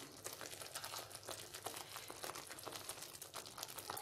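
Faint, dense crackling of onion-tomato masala frying in oil in a steel kadhai, many small pops and spits close together.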